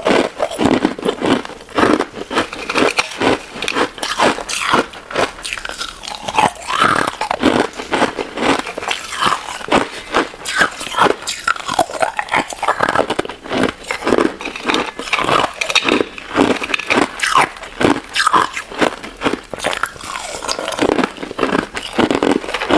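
Close-up biting and chewing of a crunchy crystal ice dessert: a steady run of sharp crunches and crackles, several a second, without a pause.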